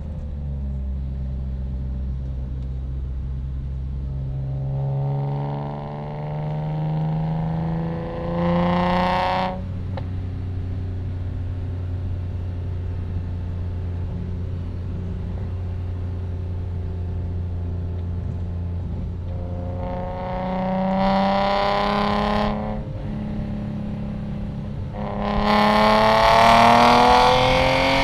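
BMW E46 M3's S54 straight-six with a loud exhaust, driven hard: the engine note climbs in pitch under acceleration and drops off sharply as the throttle lifts, holds a steady lower drone while cruising, then pulls up again twice, the last and loudest pull running near the end.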